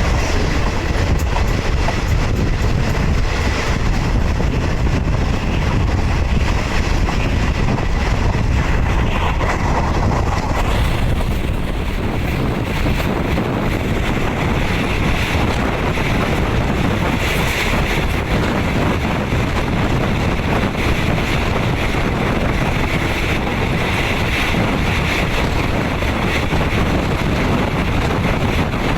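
Passenger train running along the track, heard from inside a third-class coach: a steady rumble of wheels on rail with wind rushing across the microphone.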